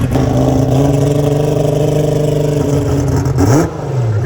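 Drag car engine held at a steady fast idle, loud and close, then blipped in a few quick revs near the end.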